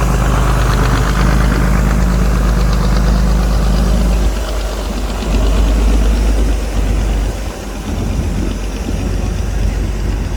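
Heavy truck engine running with a steady deep drone, easing off into a rougher, lower rumble about four seconds in.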